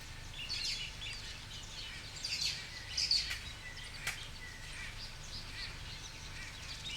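Birds chirping and calling, many short chirps overlapping, with one sharp click about four seconds in.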